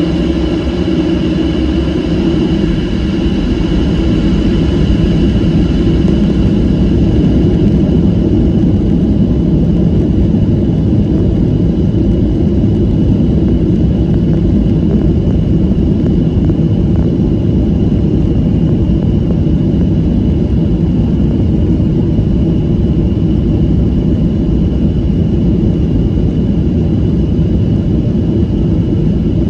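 Jet engines of a Boeing 737 running steadily, heard from inside the passenger cabin: a loud, even rumble with a steady high whine above it.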